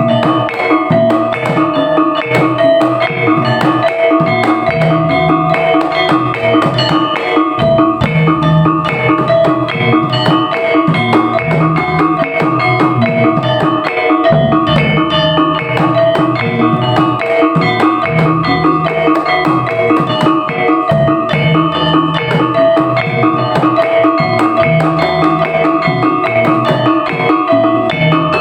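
Topeng Ireng dance accompaniment: drums play a steady, repeating pattern under held, ringing tones from tuned gongs.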